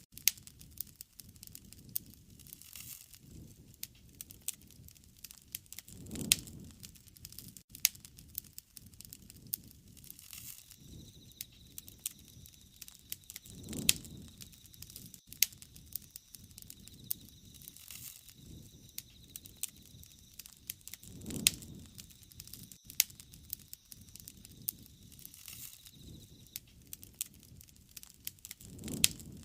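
Wood fire crackling, with many sharp pops and snaps and a low rushing swell about every seven or eight seconds.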